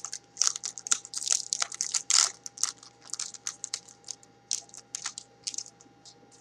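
A trading-card pack's wrapper being torn open and crinkled by hand: a quick run of crackles and crunches that thins out and stops about five and a half seconds in, over a faint steady hum.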